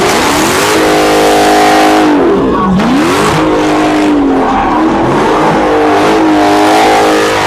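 A car engine revved hard at a car meet: it climbs, holds high for over a second, drops sharply about two and a half seconds in, then climbs and holds again with smaller dips. A loud rushing noise runs underneath.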